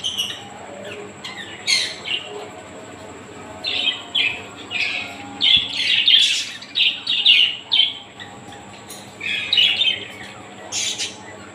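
Parrots calling with short harsh squawks and chirps, coming in bursts: a few near the start, a busy run in the middle, and another cluster near the end.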